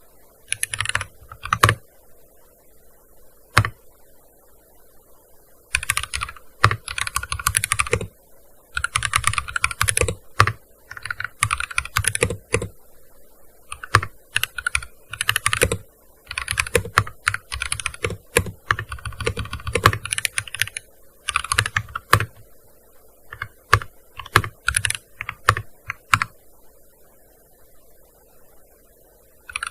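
Typing on a gaming keyboard: quick runs of key clicks in bursts of a few seconds, broken by short pauses, with single keystrokes between, thinning out and stopping for a few seconds near the end.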